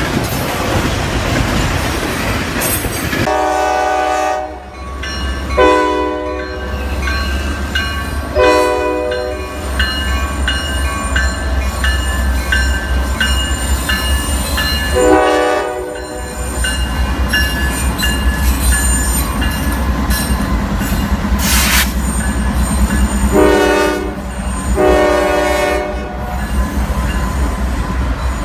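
Norfolk Southern diesel freight locomotives passing close by with a steady low rumble. The air horn sounds six blasts: two in the first few seconds, one near a third of the way, one about halfway, and two close together near the end. High-pitched wheel squeal runs through the middle.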